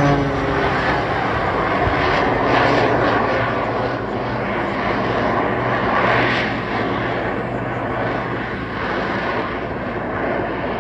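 Display aircraft engine noise: an engine tone drops in pitch as the aircraft passes in the first moment, then a loud, steady roar that swells briefly around two and six seconds in.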